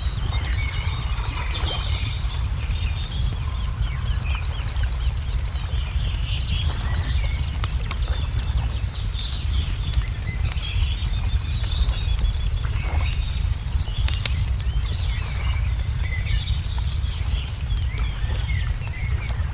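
Wood fire crackling with scattered sharp pops over a steady low rumble, while small songbirds chirp and twitter throughout.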